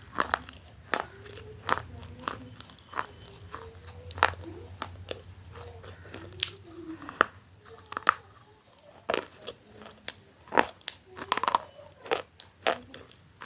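Close-miked eating: crisp food being bitten and chewed, with sharp, irregular crunches.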